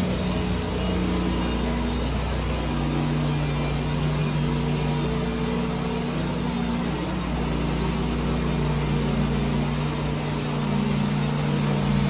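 Portable sawmill's engine running steadily under load, with slight shifts in pitch as it works.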